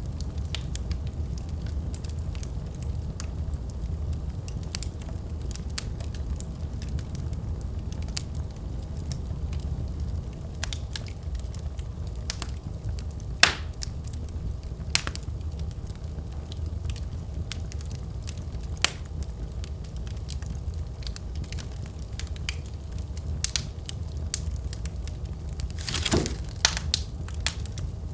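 Wood fire burning in a fireplace: a steady low rumble of the flames with irregular sharp crackles and pops from the burning logs, one louder pop about halfway through and a quick flurry of crackles near the end.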